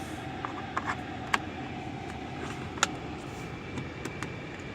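A few light plastic clicks and knocks from a car's centre-console storage lids being opened and handled, over the steady hum of the cabin ventilation fan.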